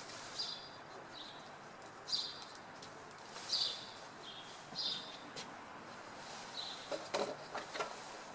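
Small birds chirping: short, separate chirps about once a second over a steady murmur of city background noise. A few sharp clicks come close together near the end.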